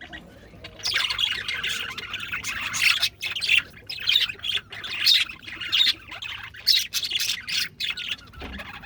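Male budgerigars chattering, a dense run of short squawks and chirps that picks up about a second in and carries on with brief breaks.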